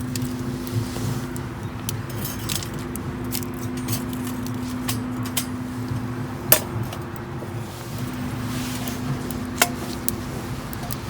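Wood fire crackling in a small fire box, with two sharp metal clinks of cookware, over a steady low hum.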